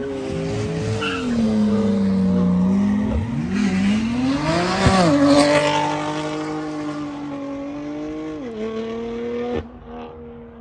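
Car engine revving up and down with tyres squealing and skidding, loudest about four to six seconds in. The sound cuts off abruptly about a second before the end.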